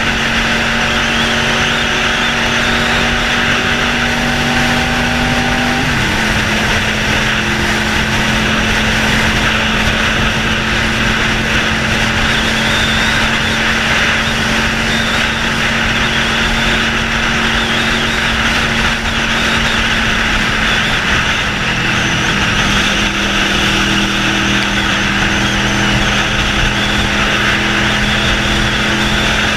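Honda VFR 750F's V4 engine running without a muffler at a slow riding pace, a steady note; about six seconds in the pitch drops quickly, and it steps down slightly again about twenty-two seconds in.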